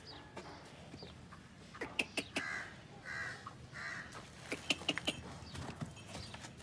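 A bird calling three times in quick succession, from about two to four seconds in, among scattered sharp clicks and knocks.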